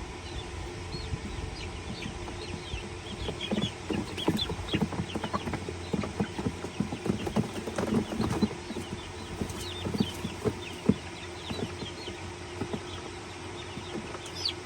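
Baby chicks peeping in short, high, rising chirps among clucking hens, with scattered knocks and rustling from the birds moving about.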